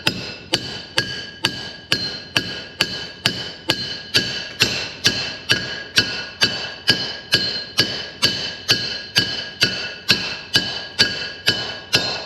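Steady hammer blows, about two to three a second, driving a bearing down onto a mower's PTO shaft with a bearing driver; each strike rings out with a clear metallic tone.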